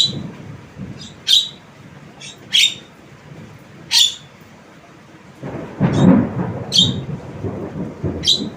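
Javan myna giving a series of short, sharp, high calls, about one every second and a half, over a low rumbling noise that swells a little past halfway.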